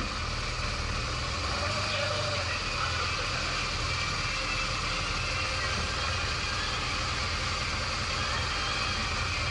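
Engine idling steadily, a constant low rumble with an even hiss above it.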